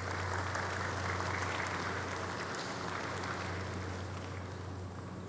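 Audience applauding, fading away near the end, over a steady low hum.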